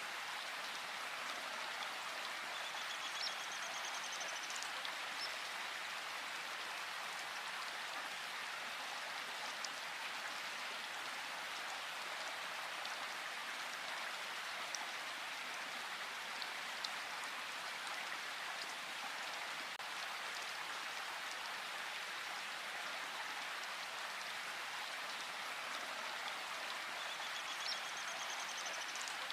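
Steady rain falling in a forest, an even patter with a few louder single drops. A bird gives a short trilling call about three seconds in and again near the end.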